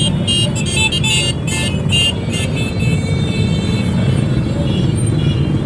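Steady low rumble of motorcycle engines running in a procession. Rhythmic music plays over it during the first couple of seconds.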